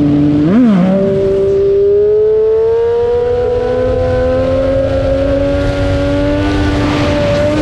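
Motorcycle engine: a quick throttle blip about half a second in, then the engine note climbing slowly for several seconds as the bike pulls, and dropping near the end.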